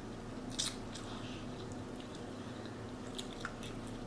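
A person chewing food close to the microphone, soft, with a few sharp wet mouth clicks, over a faint steady hum.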